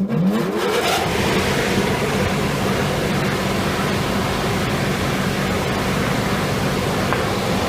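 Bouncy castle blower switched on: its electric motor spins up with a rising whine over the first second, then runs steadily with a hum and a strong rush of air, feeding air into a homemade forge.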